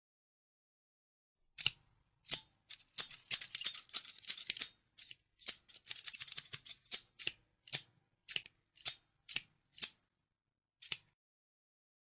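Scissors snipping. Quick runs of closely spaced snips give way to single snips about half a second apart, the last one a second later, near the end.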